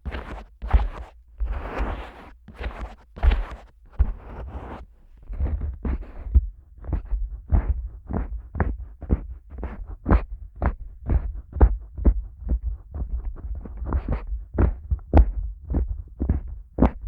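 Fingers working the silicone ears of a Neumann KU100 dummy head microphone. For about the first five seconds they tickle and tap the ears with some rubbing. After that they squeeze the ears in quick small presses, a steady run of muffled thumps at about three a second.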